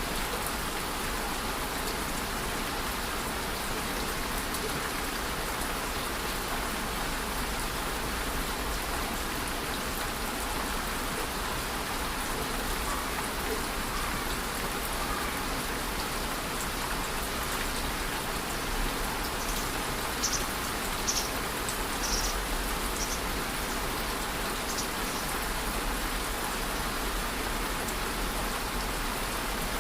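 Steady rain falling, an even hiss of drops on a surface. A handful of short, high-pitched ticks come through about twenty seconds in.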